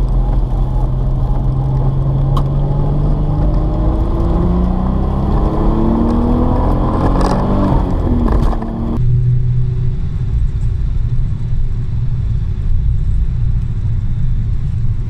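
A car engine heard from inside the cabin, climbing steadily in pitch as the car accelerates. About nine seconds in, the sound changes abruptly to a steadier, duller engine and road drone.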